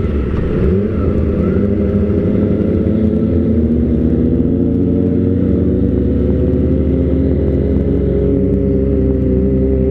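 Kawasaki ZX-25R's 250 cc inline-four engine with an Austin Racing aftermarket silencer, running. Its pitch wavers slightly in the first second or two and then holds steady.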